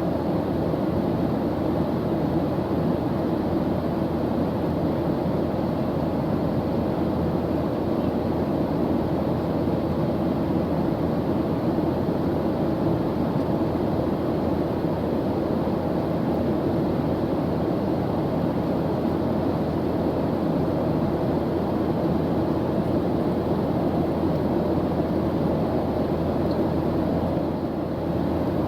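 Airplane engine noise in flight: a steady, deep, even rush with no changes, its weight in the low and middle range.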